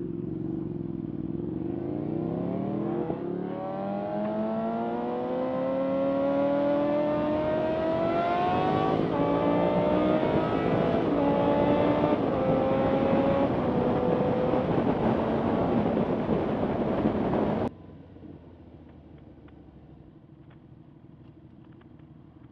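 Sportbike engine pulling away and accelerating, its pitch climbing steadily for about ten seconds and then staying high. The engine sound cuts off abruptly about 18 seconds in, leaving a quieter steady rumble.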